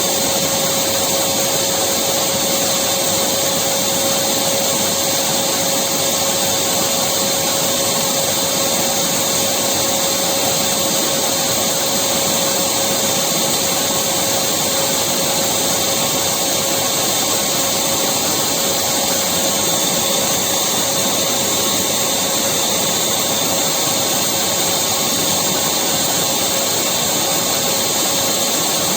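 Electric vacuum cleaner running continuously: a steady motor whine with a constant hum under it, unchanging throughout.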